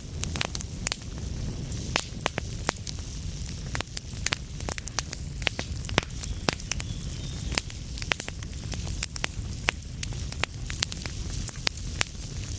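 Wood fire in a fireplace crackling: dense, irregular sharp pops and snaps over a steady low rumble of burning, with a faint brief high whistle about halfway through.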